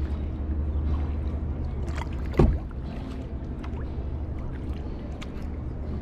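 Kayak paddling: the paddle dips and splashes in the water with scattered small clicks over a steady low rumble. A single sharp knock comes about two and a half seconds in.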